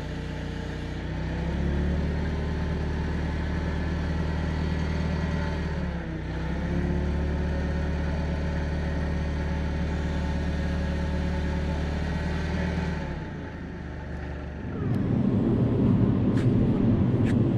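Forklift engine running under hydraulic load, speeding up about a second in, dipping briefly and picking up again near the middle, then easing back to idle. A louder, rougher noise takes over near the end.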